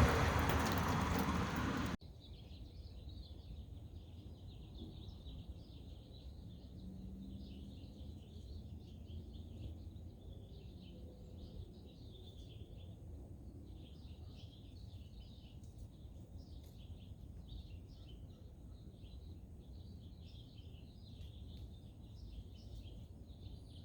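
A flock of wild parrots chattering and chirping continuously, fairly quiet, over a low steady rumble. A loud rushing noise covers the first two seconds and cuts off suddenly.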